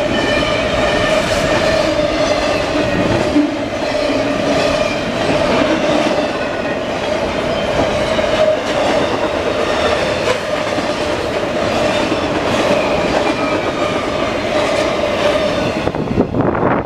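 Double-stack container cars of an intermodal freight train rolling past at speed: steady rail noise with wheel clicks over the rail joints and a steady ringing tone on top. The end of the train goes by near the end, and the noise starts to fall away.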